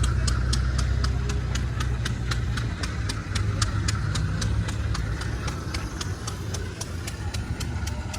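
A car engine idling with a steady low rumble and a rapid ticking, about four ticks a second, both slowly getting fainter.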